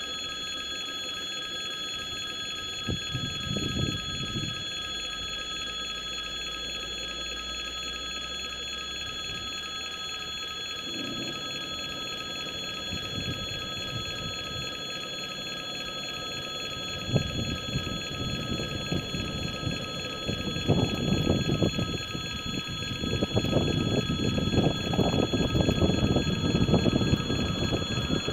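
Passenger train hauled by an EP2K electric locomotive approaching through a station: a low rumble and rail clatter builds from a little past halfway and grows louder toward the end. A steady high-pitched whine of several tones holds throughout.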